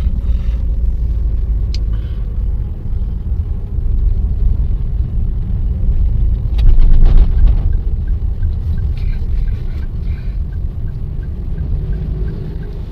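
Car interior while driving: a steady low rumble of engine and tyres on the road. It swells louder about seven seconds in, and a faint, regular ticking of about three a second starts near the end.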